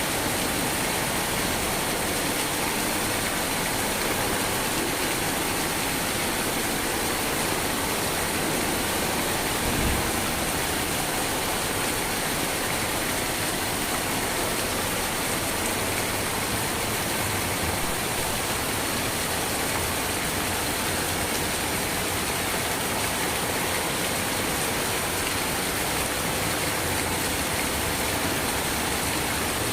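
Steady, even rain noise, a dense hiss with no distinct drops standing out, with a brief low thump about ten seconds in.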